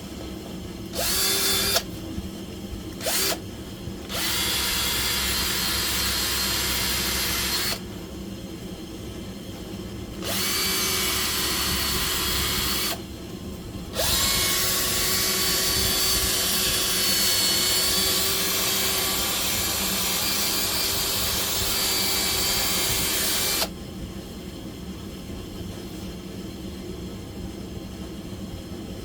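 A handheld electric power tool, drill-like, run in bursts with a steady motor whine. Two short blips come first, then three longer runs, the last about ten seconds long.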